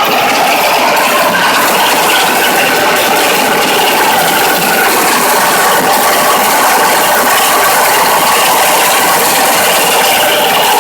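MOROZ pumpkin harvesting combine running at work, its 16 hp petrol engine and the seed-separating machinery making a loud, steady mechanical clatter.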